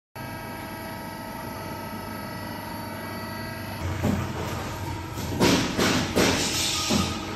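Factory production-line machinery running with a steady hum of several tones. About four seconds in it gives way to louder, noisier machine sound with a series of knocks.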